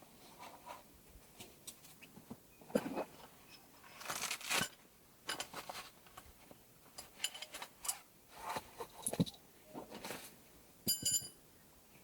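Irregular clicks, crunches and rustles of objects being handled, with a short ringing clink about eleven seconds in.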